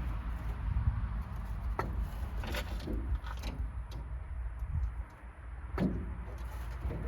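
Spark plug wires and tools being handled on the Impala's big-block Chevy engine: a few scattered clicks and scrapes over a low rumble.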